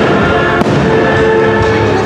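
Aerial fireworks bursting over loud music, with a sharp crack a little over half a second in.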